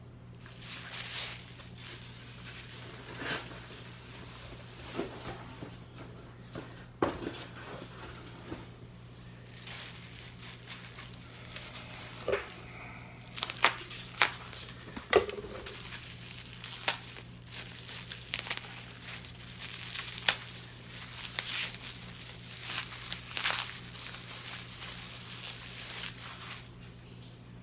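Packaging crinkling and rustling as wrapped chess pieces are unwrapped, with tape tearing and irregular sharp clicks and knocks. A steady low hum runs underneath.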